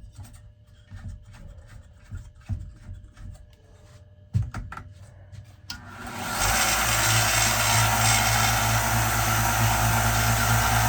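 A few light knocks and handling clicks, then about six seconds in a Harbor Freight power sander switches on and runs steadily with a low motor hum, now fitted with a 120-grit belt.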